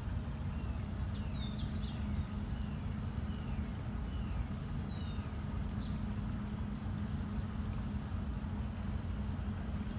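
Steady low rumble with a constant hum, with a few faint, short, down-slurred bird chirps in the first half.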